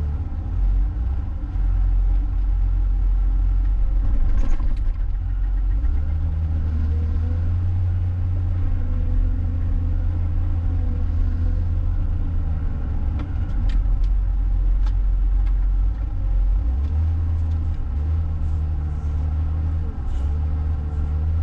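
John Deere 544K wheel loader's diesel engine running under a varying load, a steady low drone whose pitch steps up and down as it works, with a few faint clicks.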